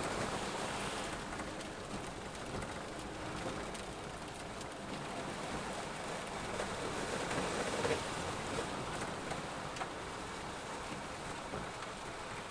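Steady rain falling on a moving vehicle, with the vehicle's running noise underneath.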